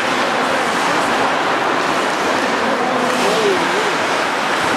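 Ice hockey game sound in a rink: a steady, loud hiss of play on the ice, with faint distant shouting voices, one rising and falling about three seconds in.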